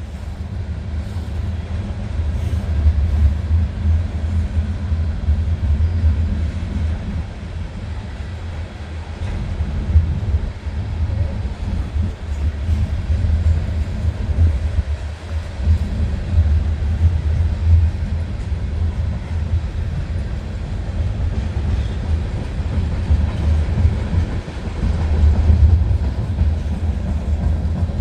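Union Pacific freight train's cars rolling past, a steady low rumble that swells and eases over the run.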